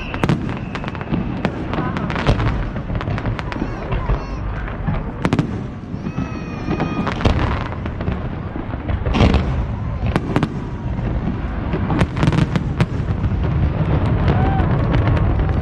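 Fireworks display going off: a rapid, continuous run of bangs and crackling with a deep rumble beneath, and voices of onlookers mixed in.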